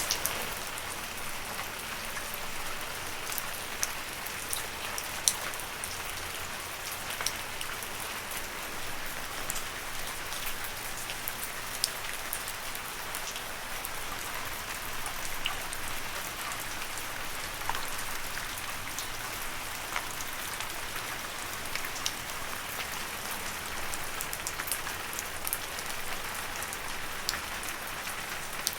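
Steady rain falling on leaves, a constant patter with many separate drops ticking out sharply here and there.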